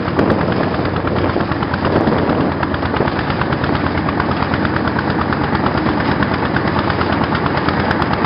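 Diesel engine of a passenger motorboat running steadily close by, with a rapid, even knocking.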